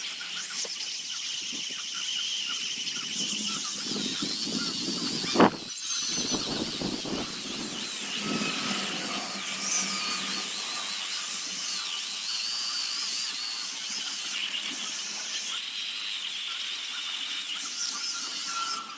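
High-speed rotary carving tool whining in wood, its pitch wavering as the load changes, with one sharp knock about five seconds in.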